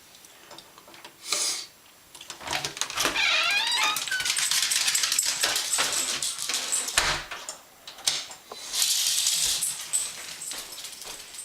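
A dog moving about close to the microphone: rapid clicking and rattling, with a short burst of rustling about nine seconds in.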